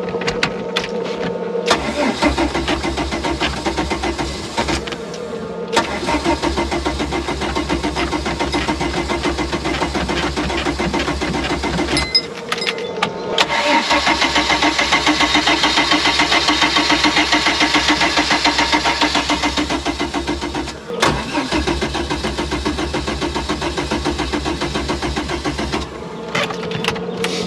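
Boat engine cranking on its electric starter without catching, in four long runs with short pauses between, the third the loudest. A steady buzzing tone sounds when the starter stops. The engine turns over but will not fire, which the owners put down to a fuel problem.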